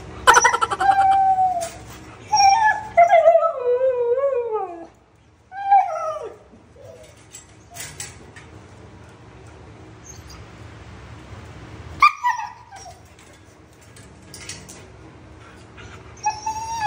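Siberian husky whining and howling at a pet gate in a series of calls, the longest a wavering howl that falls in pitch for about three seconds, with shorter whines later on: begging for food.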